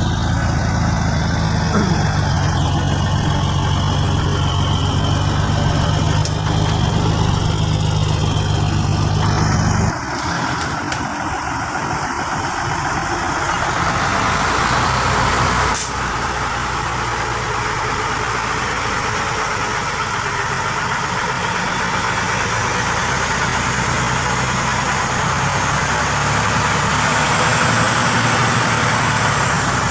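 Logging truck engine running steadily with a deep low hum. About ten seconds in, the sound cuts abruptly to a lighter engine noise, and it shifts suddenly again a few seconds later.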